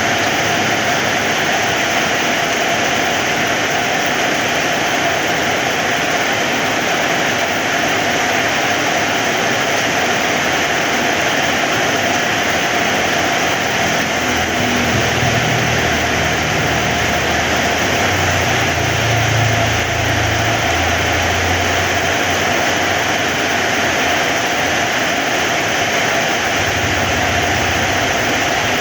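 Heavy rain falling in a steady, dense hiss. A low rumble rises under it from about halfway through, for several seconds, and again briefly near the end.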